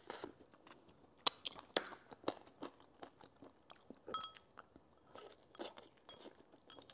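A person chewing and biting pieces of braised chicken, with irregular wet mouth clicks and smacks; one sharp click about a second in is the loudest.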